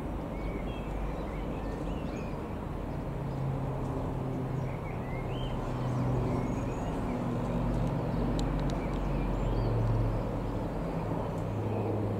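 Beechcraft Super King Air B200's twin turboprops passing, a steady low engine and propeller drone that grows louder towards a peak near the end. Small birds chirp throughout.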